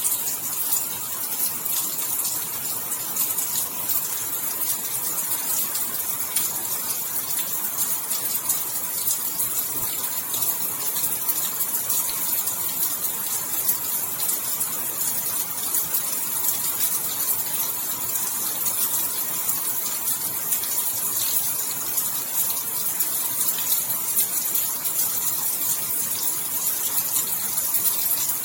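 Steady heavy rain: a continuous even hiss of falling drops, with many fine patters of drops hitting.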